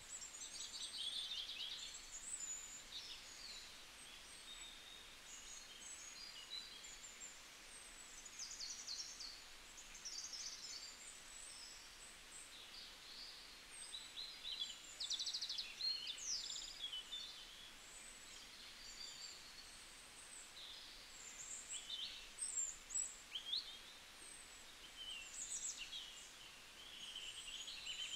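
Faint birdsong from several small birds: overlapping short chirps, quick whistled glides and a few rapid trills, over a soft background hiss.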